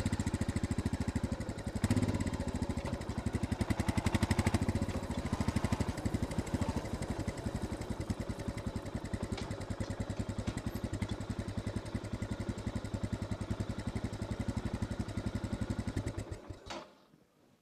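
Royal Enfield Scram 411's single-cylinder engine running with an even thumping beat, swelling briefly a couple of times early on, then settling steady. It cuts off abruptly near the end as the engine is switched off.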